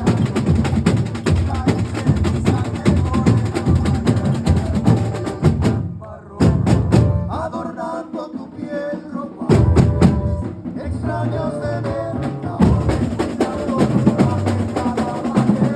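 A carnival comparsa drum section (batería) playing together. The full drumming breaks off about six seconds in, comes back in sharp accented hits with a pitched line over them, and returns to the full groove near the end.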